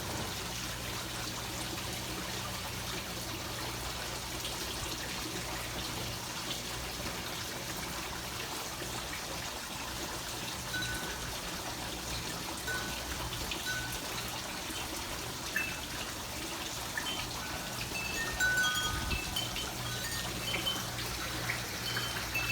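Steady trickling water. From about halfway, short high ringing notes at several different pitches join in, coming more often toward the end.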